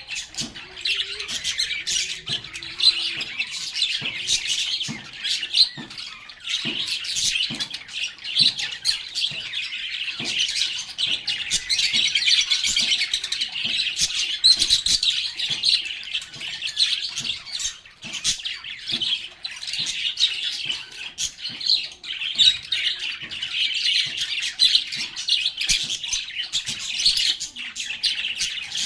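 A flock of lovebirds chattering and chirping non-stop, a dense mix of high twittering with many short, sharp squawks.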